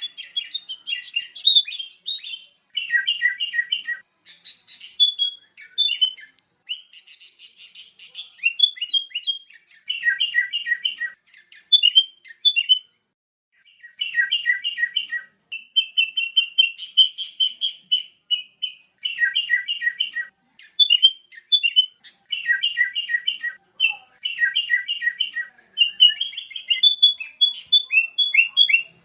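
Sooty-headed bulbul (kutilang) calling: short phrases of quick, bright chirping notes, repeated over and over with brief pauses, and one longer unbroken run of notes about halfway through.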